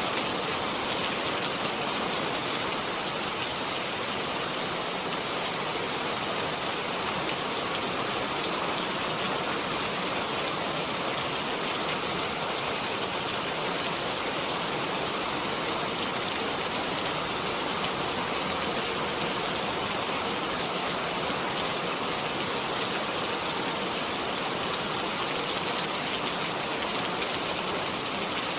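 Steady rain falling, an even hiss of many drops without letting up.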